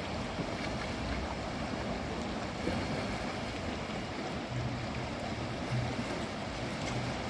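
Kabul River running high in flood after heavy rain: a steady rush of fast water. A low hum comes and goes in the second half.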